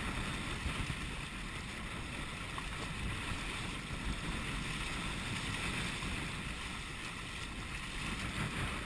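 Wind buffeting the microphone and water rushing along the hull of a Hobie Wilderness sailing kayak running fast downwind, a steady rushing noise.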